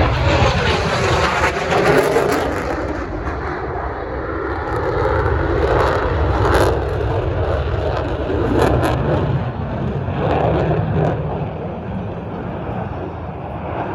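Jet noise of an F-16 fighter flying past: a loud, rough rumble, loudest near the start, then easing off and swelling again.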